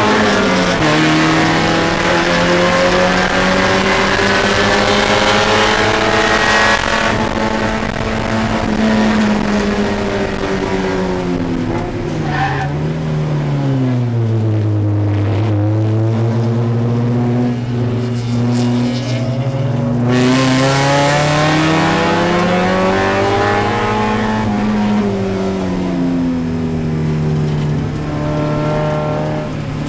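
Spec Miata race car's four-cylinder engine heard from inside the cockpit, running hard at high revs. About halfway through the revs fall steeply and stay low for a few seconds, then climb again as the car accelerates, with smaller dips and rises near the end.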